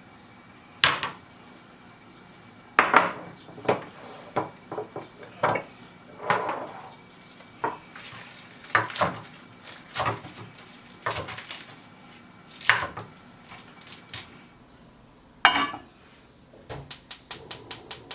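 Kitchen utensils and dishes clinking and clattering in scattered knocks during food preparation, ending in a quick run of about eight even taps near the end.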